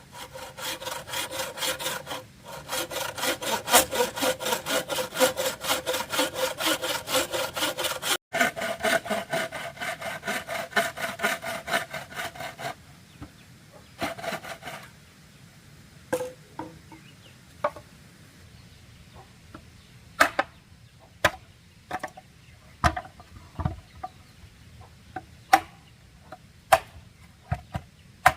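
Hand saw cutting through bamboo in fast, even strokes, about four a second, with a ringing pitch from the hollow stem. Through the second half come scattered sharp wooden knocks and taps.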